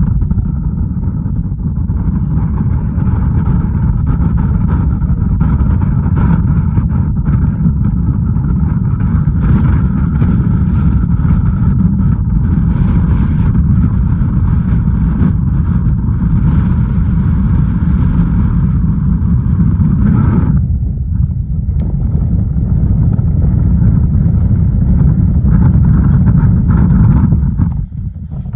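Strong wind buffeting the microphone: a loud, steady low rumble that eases briefly about two-thirds of the way through.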